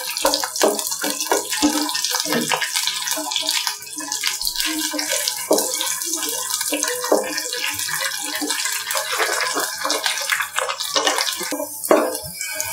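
Cashews and raisins frying in hot ghee in a nonstick pan: a steady sizzle full of small crackles and pops, while a wooden spatula stirs them.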